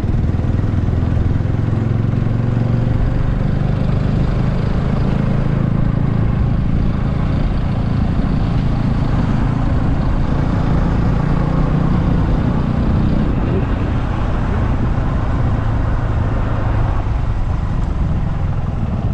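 Motorcycle engine running steadily at cruising speed, with rushing wind noise over it as the bike is ridden.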